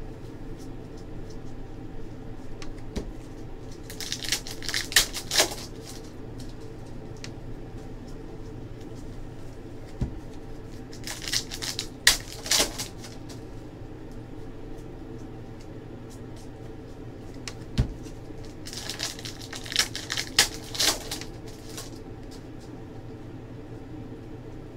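Basketball trading-card packs being torn open and their wrappers crinkled, with cards handled and shuffled, in three bursts about four, eleven and nineteen seconds in. A steady low hum runs underneath.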